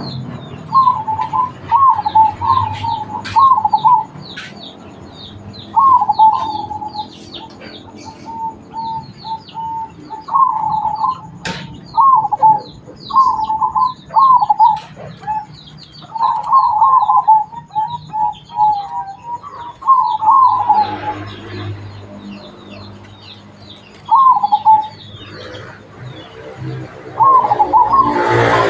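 Zebra dove (perkutut) cooing in short bursts of quick, stuttering notes, phrase after phrase with gaps between, while small birds chirp steadily high above it.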